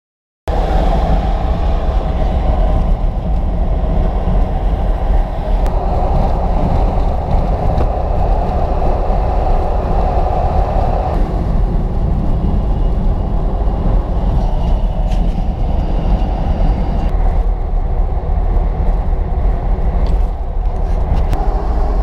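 Steady road and engine noise of a moving car, heaviest in the low rumble, starting abruptly after a short silence.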